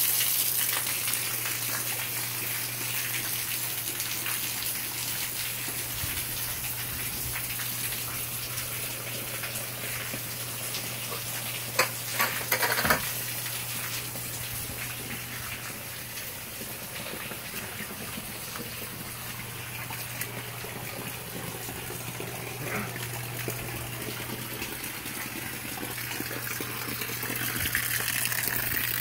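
Heavy rain falling steadily, with water pouring off the edge of a porch roof; louder near the start and end. A few sharp knocks about twelve seconds in.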